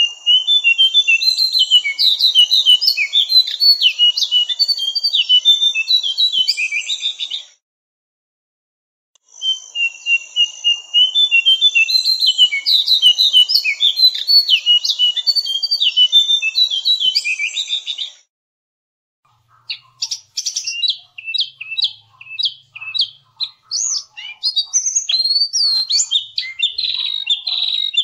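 Cingcoang (jongkangan) songbird singing in long bouts of rapid, high twittering notes. There are two bouts of about eight seconds each with short silent breaks between them. A burst of faster chirping notes begins about two-thirds of the way in.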